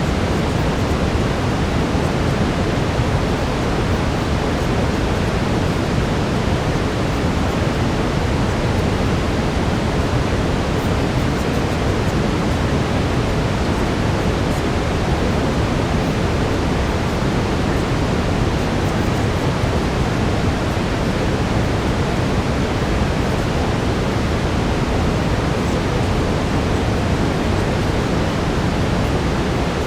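Steady synthetic brown noise: an even, unchanging rush, heavier in the low end.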